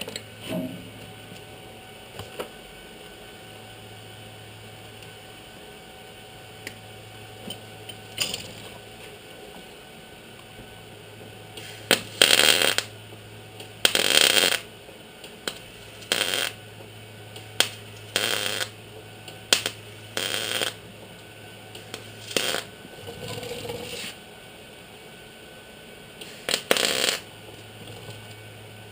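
Welder laying short tack or stitch welds on sheet-metal patch panels: about eight noisy bursts of half a second to a second each through the second half, over a low steady hum.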